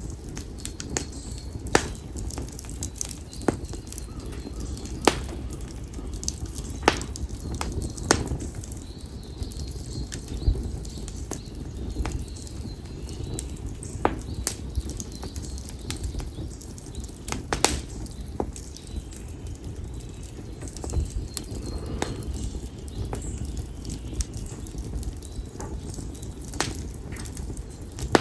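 Konara oak firewood burning in an open fire, crackling and popping irregularly over a low steady rumble of the flames. The pops come several a second, a few of them sharp and loud.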